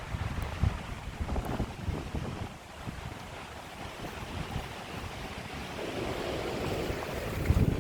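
Strong wind buffeting the microphone in uneven gusts over a steady rush of air, building into a stronger gust near the end.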